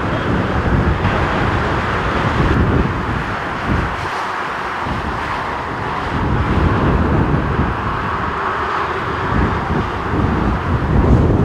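Typhoon-strength wind buffeting the microphone in ragged gusts, with a brief lull about four seconds in, over a continuous loud roar.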